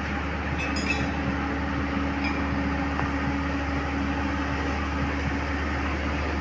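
Komatsu PC130 excavator's diesel engine running steadily, with two short metallic clinks about a second and two seconds in.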